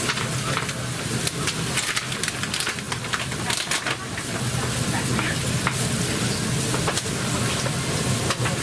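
Sliced onions and diced lardons frying in a large flat steel pan, sizzling steadily with frequent small crackles and spits. A steady low hum runs underneath.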